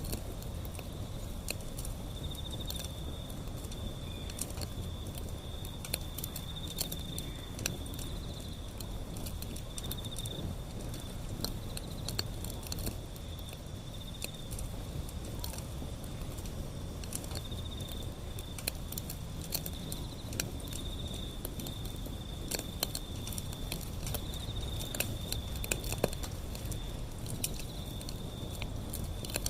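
Wood fire burning, with frequent irregular crackles and sharp pops over a low, steady rumble of the flames. A continuous high, pulsing trill runs behind it.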